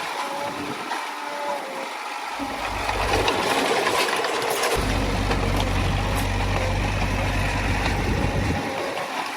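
Earthmoving machine's diesel engine running, growing louder about three seconds in and easing back near the end.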